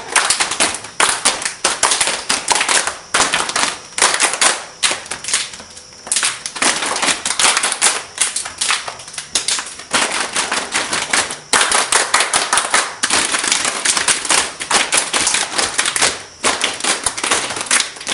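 A dense run of rapid, irregular sharp clicks and cracks, with a brief lull about six seconds in and another near the end.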